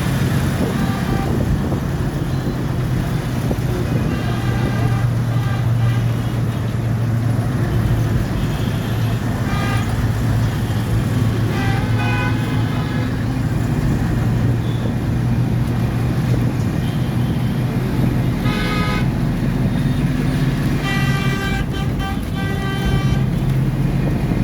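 Road traffic with a steady engine hum and car horns honking at intervals, several short toots and a longer run of honking near the end.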